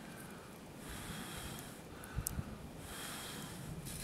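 A man breathing heavily close to the microphone: two long, noisy breaths about two seconds apart, with a small click between them.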